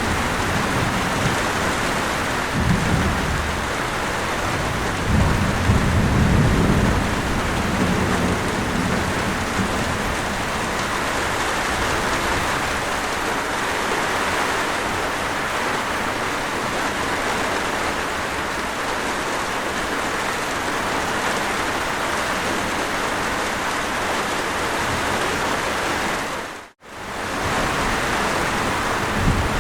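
Steady, heavy rain with low rolls of thunder about three and six seconds in. The rain sound dips out for a moment near the end and comes straight back.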